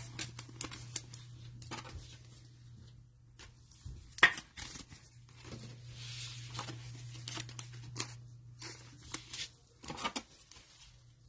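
Cellophane wrapper of a trading-card pack crinkling and tearing, with cards tapping and sliding in irregular bursts; one sharp snap about four seconds in. A steady low hum lies under it.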